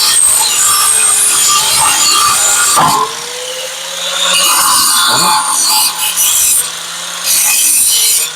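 Angle grinder cleaning up fresh welds on steel shock mounts, its motor pitch sagging under load as the disc bites. The grinding noise drops back briefly about three seconds in and again near seven seconds as the disc comes off the metal.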